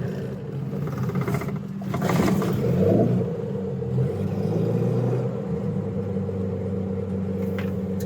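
Light aircraft's piston engine running after a hot start. It surges briefly about two to three seconds in, then settles into a steady idle.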